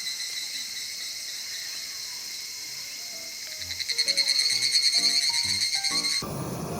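Higurashi (evening cicadas) singing: a steady high ringing, then about halfway through a louder, rapidly pulsing trill, which cuts off suddenly shortly before the end.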